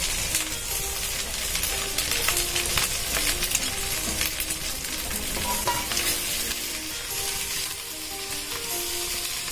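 Food frying in hot oil in a pan: a steady sizzle with fine crackling, and some stirring, under a faint background melody.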